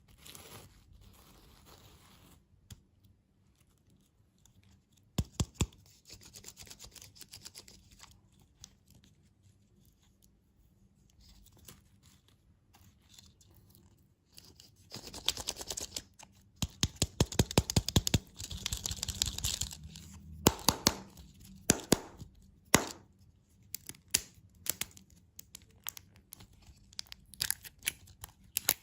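Plastic candy wrappers and packaging being torn open and crinkled, close up: scattered sharp crackles at first, then busy runs of rustling and crackling through the second half.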